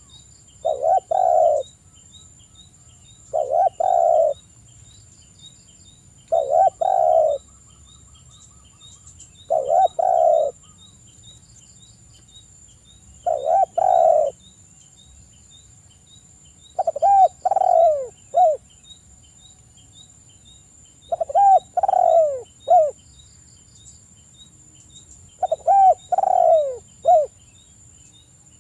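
Spotted dove (tekukur) cooing: a phrase of low coos repeated about every three to four seconds. From about halfway on, each phrase breaks into three separate falling notes.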